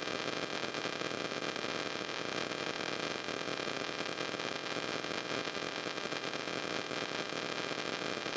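Steady hiss of background noise with a few faint, thin steady tones, unchanging throughout, with no distinct sounds.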